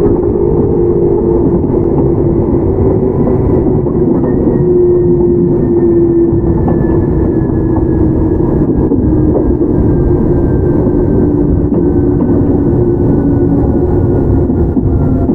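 Onboard running sound of a Toyama Chiho Railway 17480 series (ex-Tokyu 8090) field-chopper electric train: a steady rumble of wheels on rail under a motor and gear whine that falls slowly in pitch as the train slows.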